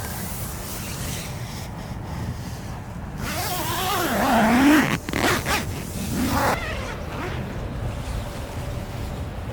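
A zipper being pulled: one long drawn pull with a wavering pitch about three seconds in, then a few short quick pulls, over a steady low wind rumble.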